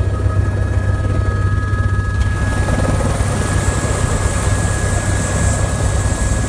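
Helicopter in flight: steady rotor and turbine noise with a deep, fast-pulsing drone and a thin steady whine above it.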